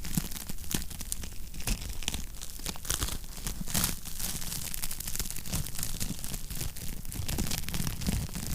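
Wood fire crackling in a fireplace: a steady hiss and low rumble of burning logs with frequent irregular pops and snaps.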